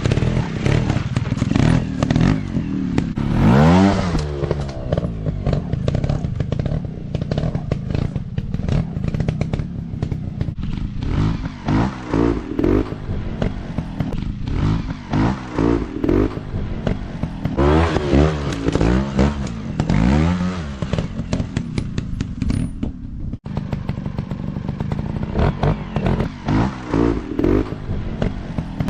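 Off-road motorcycle engines revving up and down over and over, the pitch rising and falling every second or two, with rattling knocks mixed in.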